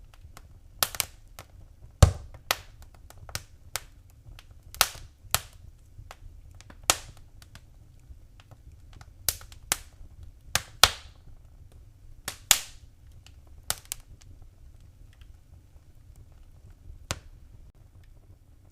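Fire in a fireplace crackling: sharp, irregular pops and snaps over a low, steady rumble. The pops come in quick clusters for the first dozen seconds, the loudest about two seconds in, then thin out to a single one near the end.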